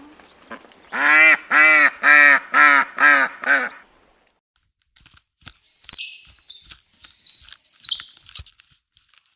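Waterfowl, a goose or duck type of bird, giving a quick run of six harsh, honking calls. About two seconds later comes a separate shrill, high-pitched sound.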